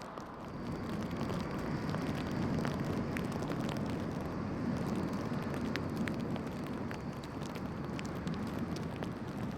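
Road traffic on snowy, icy streets: tyre and engine noise that swells and then eases as vehicles pass, with scattered sharp crackles.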